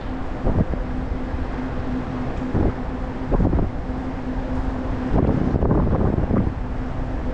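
Wind buffeting the microphone of a moving e-bike, with gusts swelling every second or so over a steady low hum that drops out briefly a few times.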